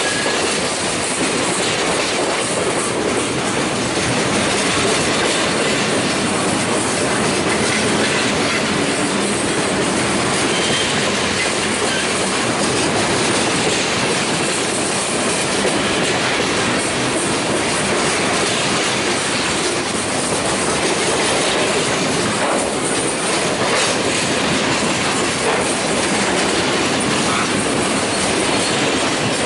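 Freight cars of a long mixed train rolling past close by, their steel wheels running on the rails in a steady, unbroken noise.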